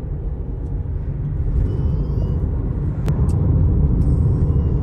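Low rumble of road and engine noise inside a moving car, growing louder about a third of the way through and again past the middle, with a single sharp click about three seconds in.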